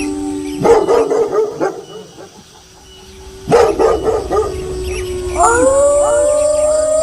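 Wolves howling in chorus, broken by two short bursts of dog barking, the first about a second in and the second about three and a half seconds in. Several new howls rise and overlap near the end.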